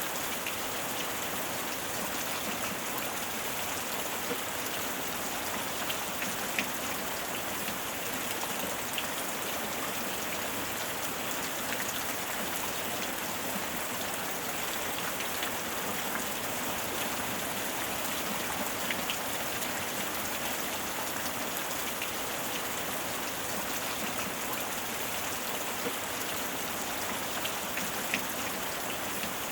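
Steady heavy rain falling on a surface, with scattered individual drop ticks over an even hiss.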